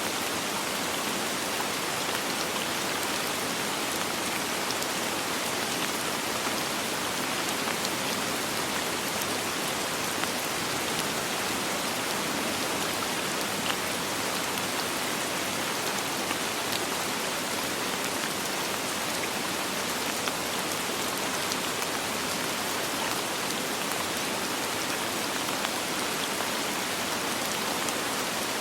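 Steady soft rain with no thunder: a dense, even hiss of rainfall with faint scattered drop ticks.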